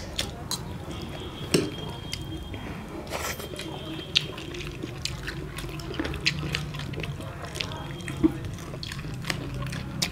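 People chewing roast chicken, with many short wet smacking and clicking mouth sounds.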